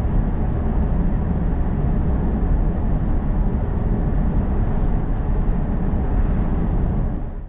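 Steady road and tyre rumble with a low engine drone from a 2024 BMW 318i cruising at constant speed on winter tyres, heard from inside the cabin. The sound is heaviest in the low end and holds even throughout.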